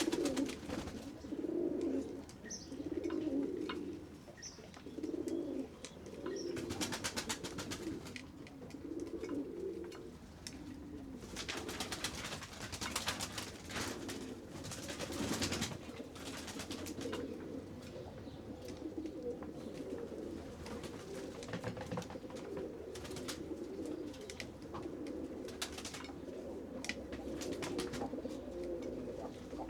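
Several pigeons cooing continually in low, overlapping coos, with a few bursts of rapid clicking or rustling noise.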